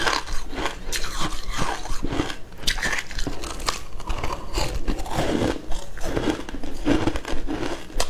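Frozen matcha ice being bitten and chewed close up, with irregular crunching and many sharp cracks as the ice breaks between the teeth.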